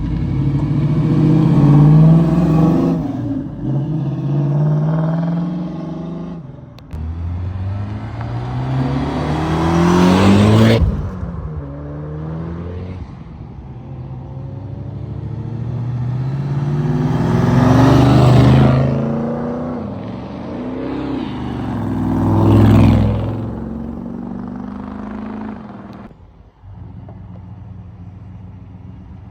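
Cars leaving one after another, engines revving and accelerating past close by, each rising in pitch as it speeds up and fading as it goes; the loudest passes come about ten and eighteen seconds in.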